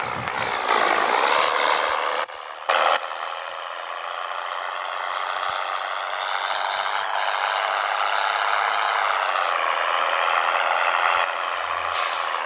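Scania 113 truck's straight-six diesel pulling away under load, its pitch rising. About two seconds in the engine note drops out briefly for a gear change, with a short blast of air. It then pulls on steadily and climbs again, and another hiss of air comes near the end.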